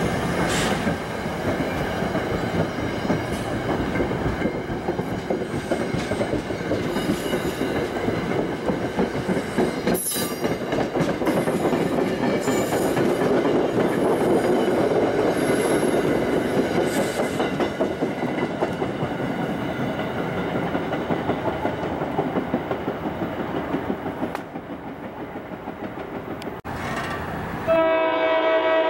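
NJ Transit passenger coaches rolling past on the rails, a steady rumble and clatter of wheels that eases off as the train pulls away. About a second before the end, an approaching train sounds its horn, a steady chord of several tones.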